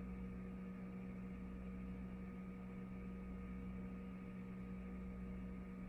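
Steady electrical hum with a faint hiss, unchanging throughout; no distinct event stands out above it.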